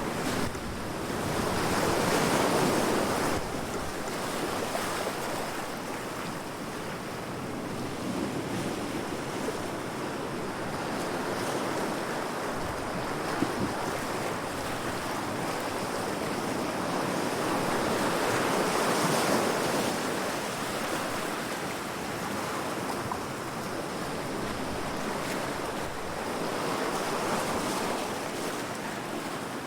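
Ocean waves breaking against rocks: a continuous rushing wash with slow swells, the loudest surges coming a couple of seconds in, about two-thirds of the way through, and near the end.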